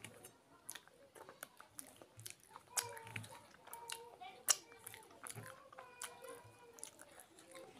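Close-up mouth sounds of a person eating soft kochuri and chana-aloo curry by hand: wet chewing, lip smacking and finger licking, with scattered sharp mouth clicks, the sharpest about four and a half seconds in.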